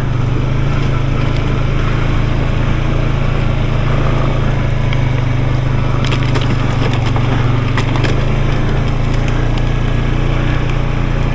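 Off-road vehicle engine running steadily at a low, even speed, its tyres crunching over rocks, with a scatter of sharp clicks from stones about six to eight seconds in.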